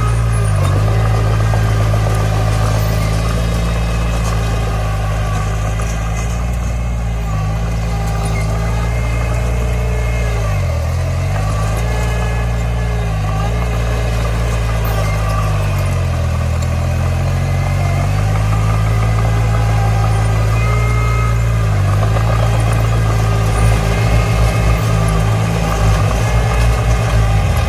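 Komatsu D20 bulldozer's diesel engine running under load, its note dipping briefly several times as it pushes dirt. A fast rattle comes in near the end.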